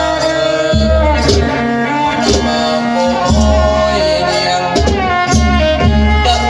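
Traditional folk music for a mamuat spirit-medium dance: hand drums beat a regular rhythm under a sustained melody that slides in pitch.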